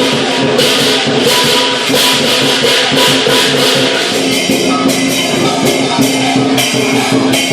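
Chinese lion dance percussion playing: a drum with clashing cymbals in a fast, dense beat.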